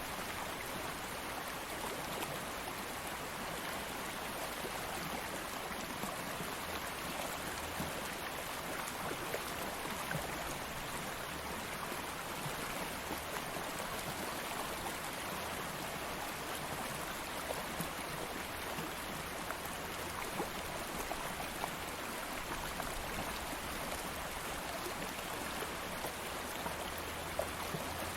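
A stream of flowing water running steadily, a continuous even rush with small splashes and trickles scattered through it.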